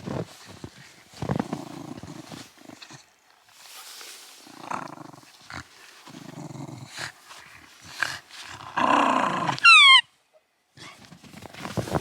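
Shiba inu dog growling in several short rough spells during play, with the click of paws or claws on the floor. Near the end a short, high falling squeak.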